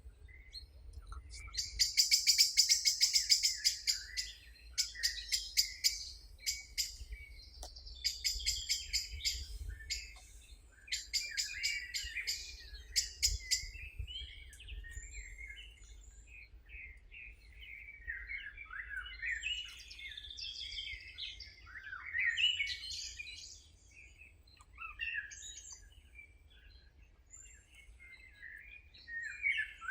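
Songbirds singing, more than one voice: fast, high, repeated trills in close runs through the first half, then looser, varied warbling phrases.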